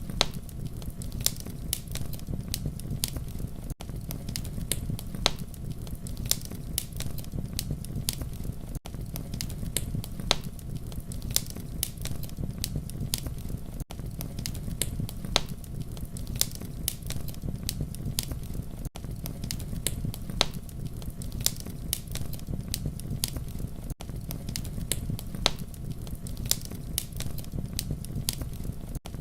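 Campfire burning: frequent sharp crackles and pops over a steady low rumble of flame, with a very brief dropout about every five seconds.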